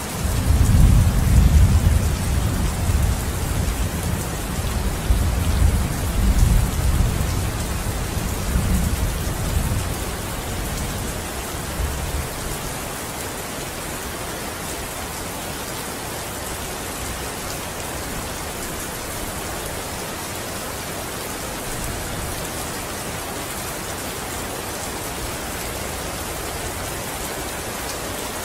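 Steady rain with a long roll of thunder that breaks in at once, rumbles loudest over the first few seconds and dies away after about twelve seconds, leaving only the rain.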